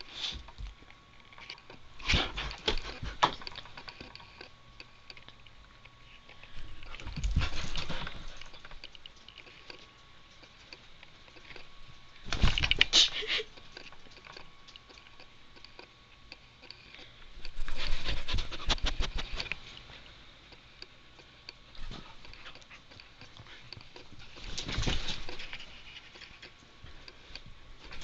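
A border collie panting in five short bouts, with quieter stretches between them.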